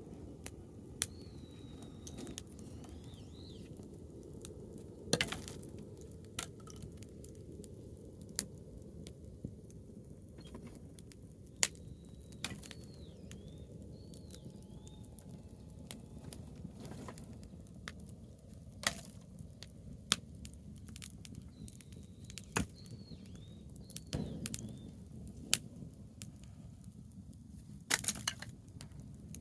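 A branch campfire crackling: sharp pops and snaps at irregular intervals over a low, steady rush of burning. Short high chirps, like a bird calling, come a few times in the background.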